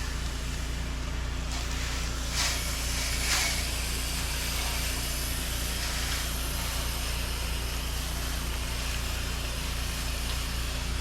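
Gas-engine pressure washer running steadily while the wand sprays, a continuous hiss of water over the engine's drone, with two brief louder spray surges about two and three seconds in.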